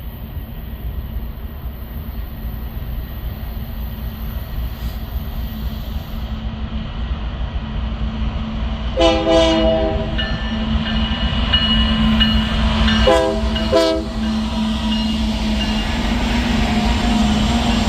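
Diesel locomotive approaching with a steady rumble that grows louder. Its multi-chime air horn sounds briefly about halfway through and again a few seconds later.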